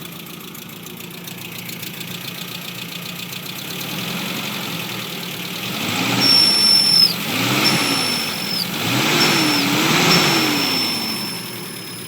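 1986 Mazda B2000's carbureted 2.0-litre four-cylinder engine idling on choke after a cold start, then revved and let fall back four times in quick succession from about halfway. A thin high squeal comes and goes over the revs. The engine is high-mileage and worn.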